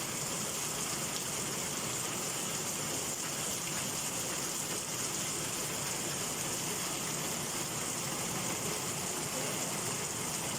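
Heavy summer downpour: a steady hiss of rain with gushing water, unchanging throughout.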